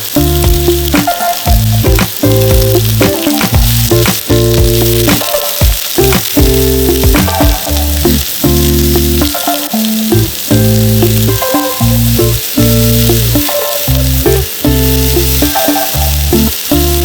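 Food frying in a pan with a steady sizzle, under background music with held bass notes that change every half second or so.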